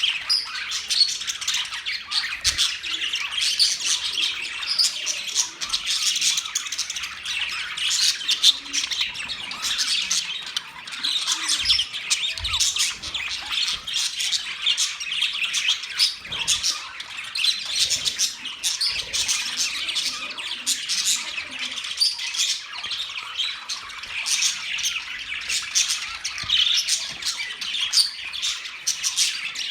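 A flock of budgerigars chirping and chattering continuously, many short overlapping high chirps and squawks, with a few faint low thumps.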